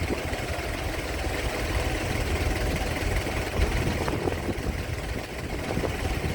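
A ship's engine running steadily with a low, continuous rumble.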